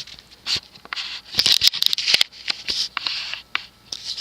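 Irregular small clicks and short rustles of handling noise, close to the microphone.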